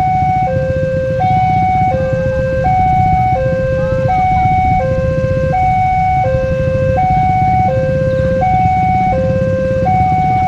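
Railway level-crossing warning alarm sounding a steady hi-lo two-tone signal, each tone about 0.7 s long, over a low rumble. It signals that a train is approaching and the crossing is closing.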